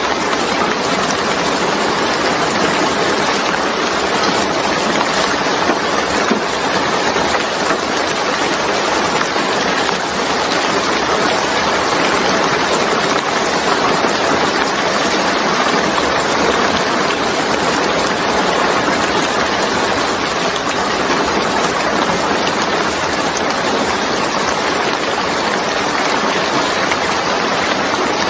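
Steady, even rain falling, a continuous hiss of water with no breaks.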